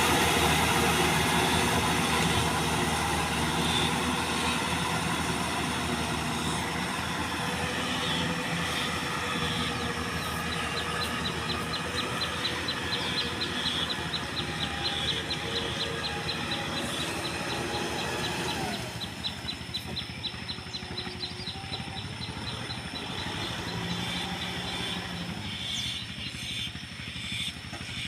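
Kubota tractor's diesel engine running steadily under plowing load, growing gradually fainter and dropping again about two-thirds through. A fast, even, high ticking runs for several seconds in the middle.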